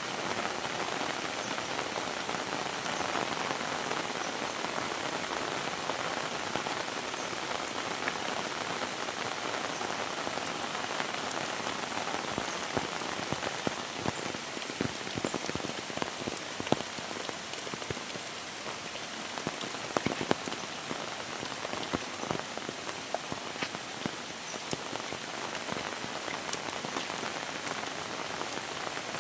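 Heavy rain falling: a steady hiss with many sharp drops and drips landing close by, a few louder ones about two-thirds of the way in.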